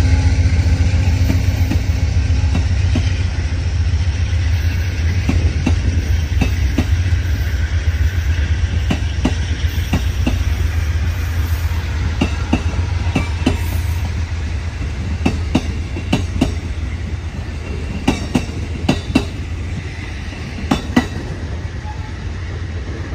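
A train rolling past with a deep steady rumble, its wheels clacking over the rails in irregular groups that grow more frequent partway through as the cars go by. The sound slowly fades.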